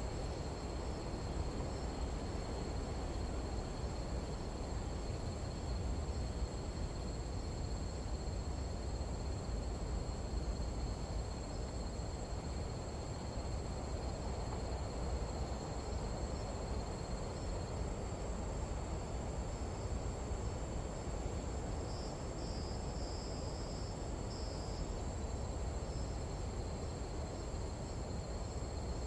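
Night insects trilling steadily at two high pitches, with a short run of extra chirps about three-quarters of the way through, over a low, even rush of wind.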